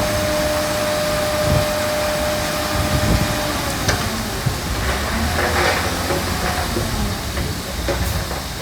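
Heavy earthmoving machinery running steadily, with a thin whine that stops about three and a half seconds in and scattered clanks and knocks after it.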